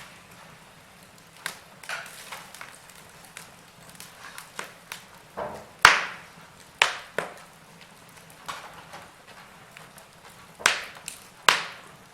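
Wood fire crackling: irregular sharp pops and snaps over a faint hiss, the loudest about six seconds in and twice near the end.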